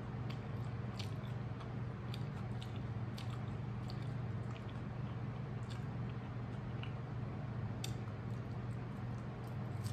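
A person chewing mouthfuls of a cheeseburger close to the microphone, with short wet clicks and smacks scattered through, over a steady low hum. Another bite is taken near the end.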